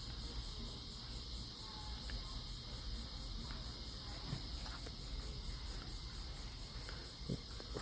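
Steady insect noise from a busy honey bee colony and its surroundings: an even, fast-pulsing high trill over a low hum, with a few faint ticks.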